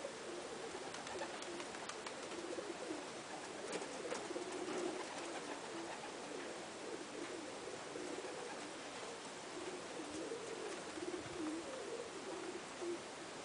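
Several domestic pigeons cooing at once, their low, overlapping coos running on continuously, with scattered faint clicks.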